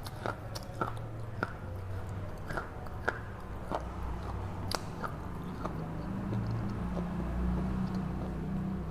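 Red slate pencil bar being bitten and chewed, with wet slate-pencil paste: sharp, irregular crunches about every half second over a steady low hum.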